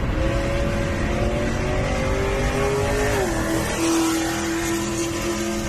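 Chevrolet SS sedan's V8 engine running under throttle. Its pitch climbs gently, then falls about three seconds in and holds steady.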